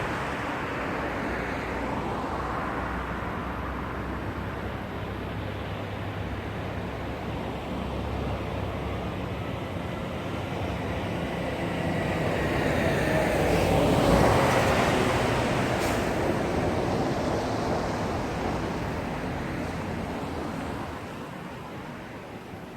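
Road traffic running steadily, with a vehicle passing close that grows louder to a peak about two-thirds of the way through and then fades away.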